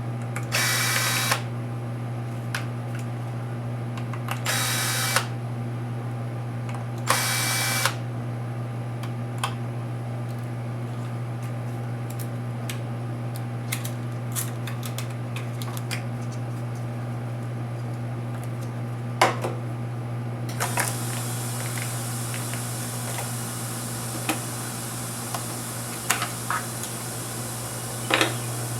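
Cordless electric screwdriver running in three short bursts under a second each, backing screws out of a laptop's case, followed by scattered small clicks and taps of screws and plastic parts, over a steady low hum.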